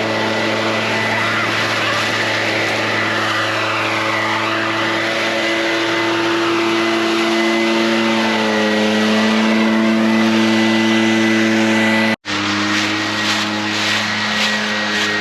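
Gasoline leaf blower engine running steadily at speed, its pitch shifting a little, with a momentary break about twelve seconds in.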